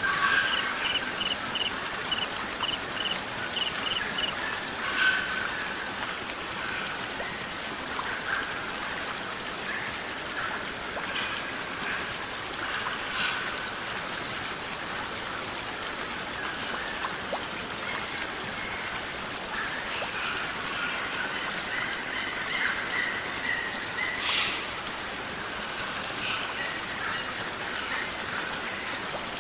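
Songbirds chirping and calling over a steady rain- or stream-like hiss of water. A cricket's evenly pulsed chirping runs through the first four seconds.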